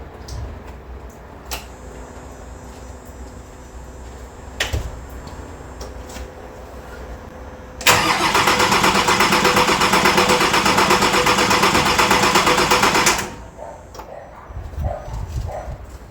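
Nissan TD42 six-cylinder diesel turned over on the starter motor for about five seconds with its injector lines cracked to bleed air from the fuel system, a fast even cranking rhythm. It does not catch, and the cranking stops abruptly.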